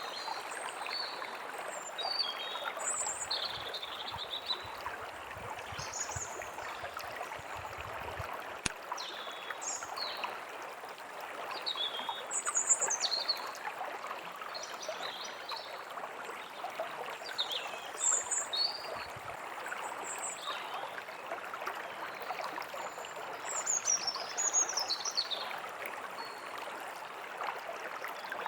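Steady rushing and trickling of a forest stream, with several small birds chirping and singing in short, gliding phrases throughout.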